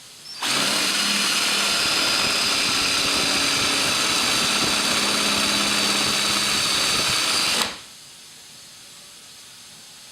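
Power drill boring with a freshly sharpened twist drill bit, a steady motor hum under the cutting noise. It starts abruptly about half a second in and stops abruptly about two seconds before the end.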